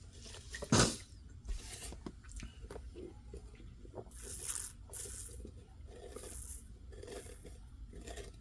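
Close-up eating and handling noises: soft crunching and rustling in short spurts, with one sharp click about a second in.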